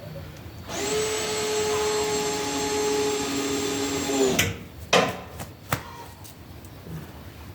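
Power drill running steadily at one pitch for about three and a half seconds, then stopping. A few sharp knocks follow.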